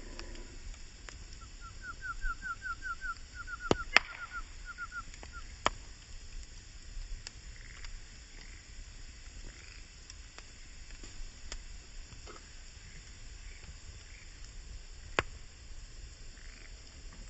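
Wood campfire burning, with scattered sharp crackles and pops from the burning wood, a few of them loud. About two seconds in there is a quick run of about a dozen high, chirp-like notes lasting about three seconds.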